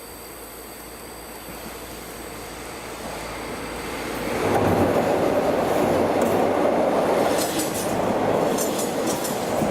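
Daewoo diesel railcar approaching and running across a riveted steel truss bridge: a rumble that grows steadily louder and becomes loud about four and a half seconds in. From about seven seconds, sharp high metallic squeals and rattles come and go over the rumble.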